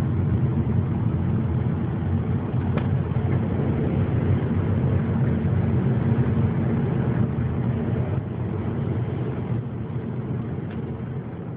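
Car engine and road noise heard from inside the cabin: a steady low rumble with a faint hum, and a couple of faint ticks.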